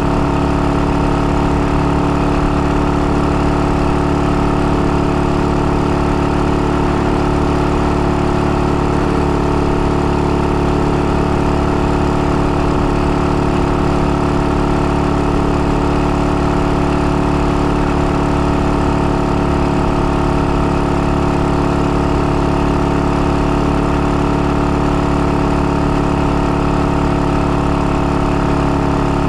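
IZh-49 motorcycle's single-cylinder two-stroke engine running at a steady, unchanging speed. The engine is freshly rebuilt, bored out for a 75 mm piston, and is being run in.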